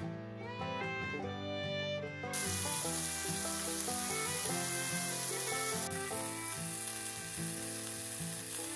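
Burger patties sizzling as they fry in a cast iron skillet, a loud steady hiss that starts suddenly about two seconds in and drops a little about six seconds in.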